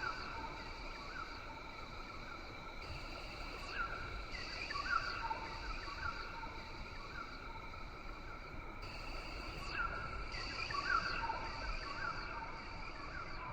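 Rainforest ambience: a steady high insect drone that switches on and off in stretches of a second or so, over a constant hiss, with many short sliding bird chirps throughout.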